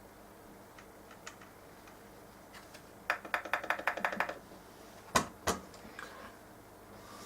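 Quick rattling run of about a dozen sharp clicks lasting just over a second, then two sharp knocks about a third of a second apart, against faint room tone: small hard parts being handled.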